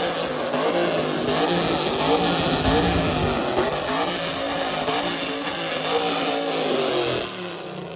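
Car engine revving loudly, its pitch rising and falling; it drops away sharply near the end.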